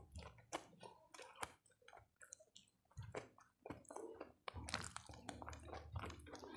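A person chewing food with the mouth close to the microphone: faint, irregular wet smacks and mouth clicks.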